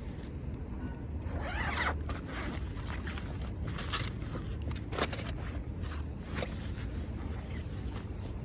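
A zipper being pulled, one rising zip about a second and a half in, followed by rustling and a couple of sharp clicks or knocks.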